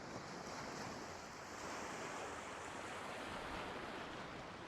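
Faint, steady rushing of sea waves and wind, swelling gently.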